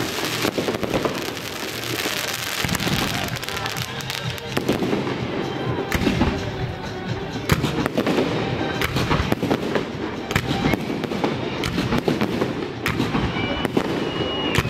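Fireworks display: shells bursting with dense, continuous crackling and popping and frequent sharp bangs, recorded through an HTC One phone's microphone.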